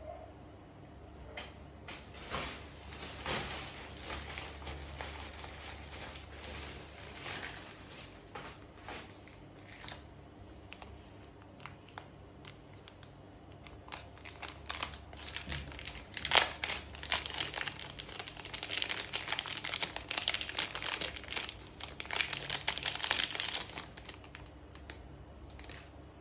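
Crinkling of thin plastic film and adhesive being handled and peeled during a phone battery replacement, with small sharp clicks in between. The crinkling comes in spells and grows louder and denser in the second half.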